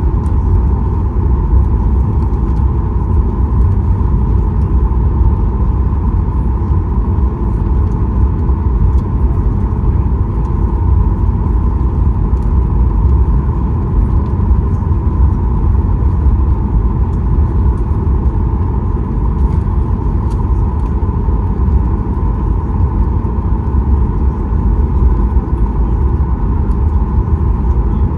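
Steady cabin rumble of a Boeing 737 MAX 8 taxiing after landing, its CFM LEAP-1B engines at idle thrust, with a steady mid-pitched hum over the deep roar.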